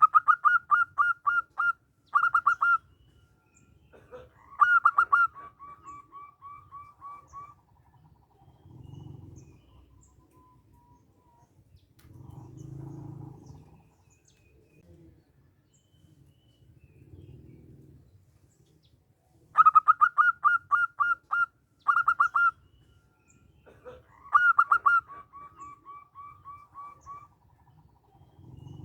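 Zebra dove (perkutut) singing: two bouts of its song, one at the start and one about twenty seconds in. Each is a quick run of staccato cooing notes, then a second phrase that trails off into a row of softer notes. Faint low rumbling comes and goes between the bouts.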